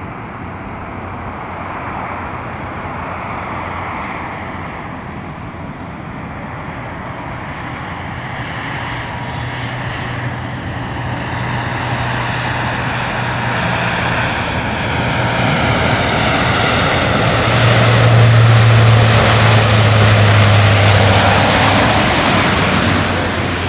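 Aircraft engines growing steadily louder as a plane approaches and passes close. The roar carries a steady low hum, is loudest about three quarters of the way through, and picks up a high whine in the second half.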